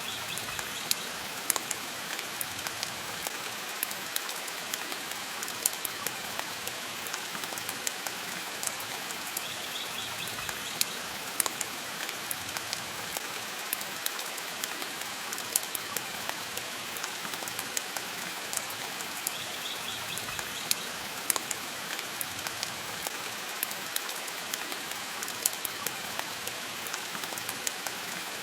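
Steady rain hiss mixed with a wood fire crackling: frequent sharp pops and snaps over an even wash of falling rain. A faint, short high chirp comes in about every ten seconds.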